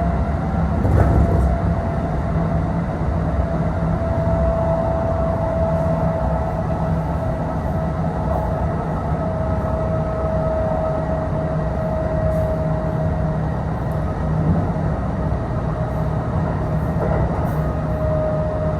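Kintetsu Osaka Line local train heard from inside the car while running between stations: a steady rumble of wheels on rail with a steady whine that drifts slightly in pitch, and a brief louder jolt about a second in.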